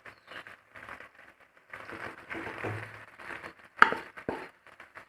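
A spoon stirring boiled macaroni into chicken masala in a pan: irregular squelching, scraping sounds, with one sharp knock of the spoon against the pan a little before 4 seconds in.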